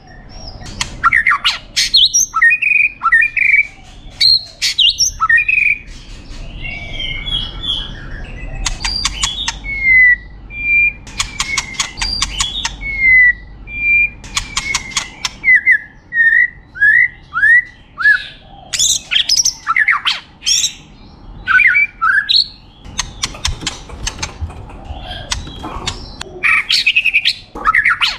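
A white-rumped shama (murai batu) singing a long, varied song. It mixes clear whistled notes, rapid rattling trills and a run of short slurred whistles, with harsher chattering notes between phrases.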